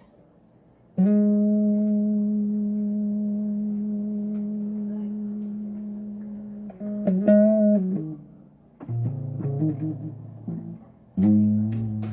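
Electric bass guitar played solo: a single note is plucked about a second in and rings for several seconds, slowly fading. It wavers in pitch near the middle, then a few lower notes follow and another note is struck near the end.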